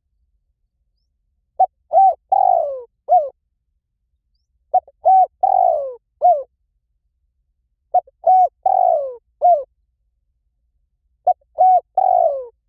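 Spotted dove cooing, a recording of its call used as a decoy lure. Four identical phrases, each of short coos, a longer falling coo and a short final coo, repeat about every three seconds.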